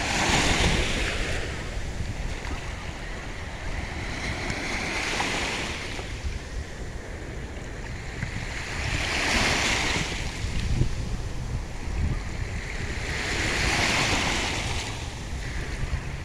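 Sea waves breaking and washing on the shore, a surge of hissing surf roughly every four seconds over a low steady rumble, with some wind on the microphone.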